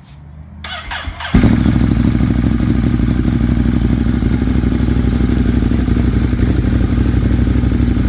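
2017 Ducati Monster 821's L-twin engine, breathing through Termignoni dual mufflers, cranks on the starter for under a second, catches suddenly and settles into a loud, steady idle.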